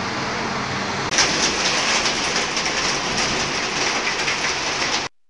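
Traffic noise on a wet road with a low engine hum, then about a second in a heavy downpour takes over: a loud, dense rain hiss full of ticking drops, cutting off abruptly near the end.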